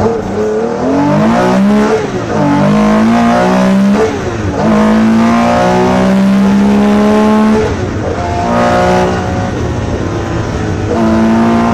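Porsche 911 RSR's flat-six engine heard from inside the cabin, accelerating hard on a rally stage. Its pitch climbs and drops sharply twice as it shifts up, holds high at full throttle, falls away about three quarters of the way through as the driver lifts, and climbs again near the end.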